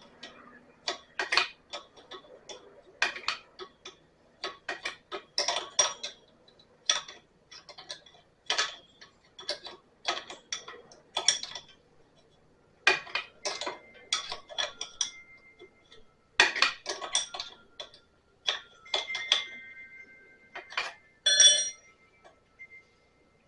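Hand tools clicking and clinking against the metal fittings of an antique hit-and-miss engine's fuel line as a hose fitting is worked loose, in irregular clusters with a few brief metallic rings and one louder clank near the end.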